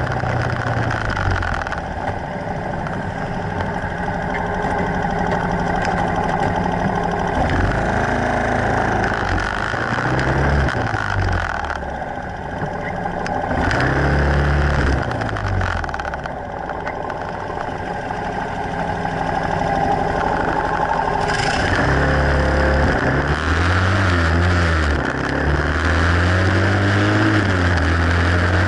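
125cc Yamasaki motorcycle engine pulling through the gears, its pitch rising and dropping back again and again, under a steady rushing noise.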